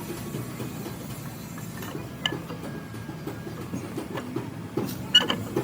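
A steady low mechanical rumble with a few sharp metallic clinks: one about two seconds in and a louder cluster near the end.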